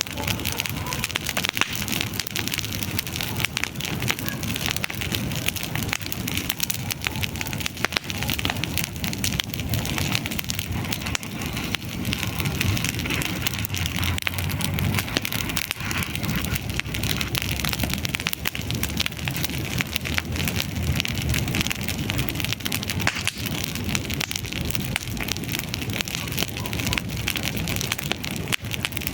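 Wood campfire burning, with dense, continuous crackling of the burning wood.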